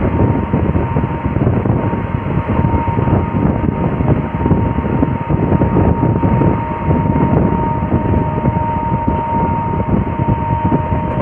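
Passenger train running at speed, heard from the open coach doorway: a loud, steady rush of wheel-on-rail noise and wind, with a thin steady whine above it.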